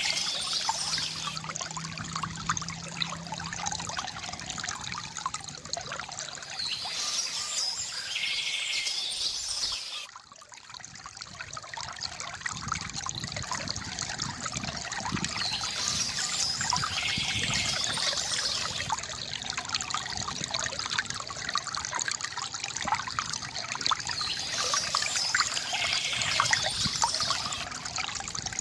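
Water trickling and splashing from a bamboo fountain, with birds chirping about every nine seconds. The water sound drops away briefly about ten seconds in, then builds back up.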